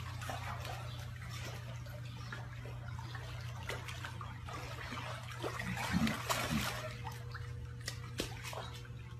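Pool water splashing and lapping as a young lion swims, over a steady low hum, with a louder splash about six seconds in.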